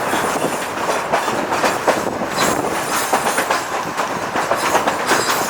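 Narrow gauge train cars running on the rails: a steady rolling noise with many irregular clicks from the wheels over the track.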